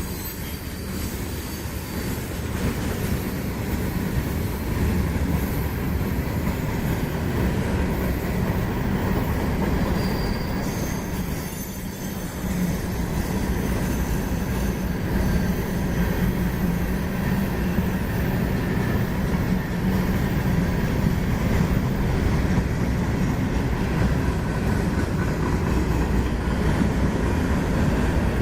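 Freight cars of a long manifest train rolling past, a steady rumble of steel wheels on rail, with brief high wheel squeals near the start and about ten seconds in.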